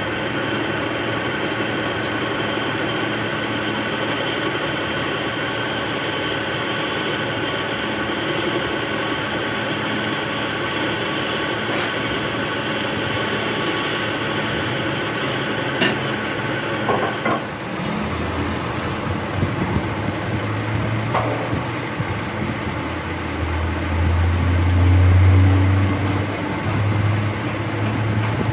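A workshop machine running steadily with a whining hum. A sharp click comes about two-thirds through, and then the machine stops. A lower hum and light knocks of metalwork follow.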